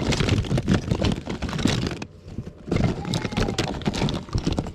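Rapid clattering and knocking of hard objects being handled and rummaged through, in two stretches with a short pause about two seconds in.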